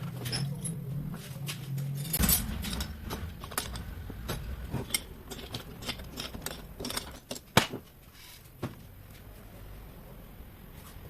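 Metal tools and engine parts clinking and tapping on a workbench: a run of irregular sharp clicks, the loudest about seven and a half seconds in. A low steady hum stops about two seconds in.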